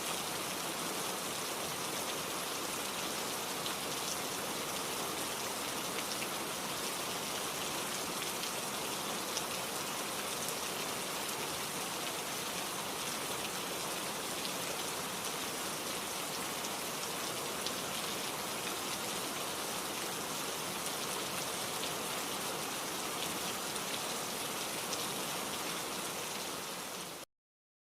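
Steady rain falling, an even hiss with the patter of single drops, cutting off abruptly near the end.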